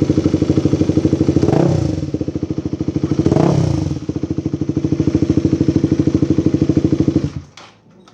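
Honda CBR150's single-cylinder engine idling through an aftermarket Yoshimura exhaust, blipped twice, then stopping suddenly near the end.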